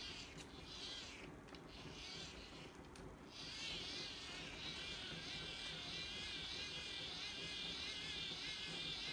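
Faint whirring buzz of a Sony ICF-B88 hand-crank radio's dynamo being cranked. It starts about three seconds in, and its pitch wobbles up and down steadily.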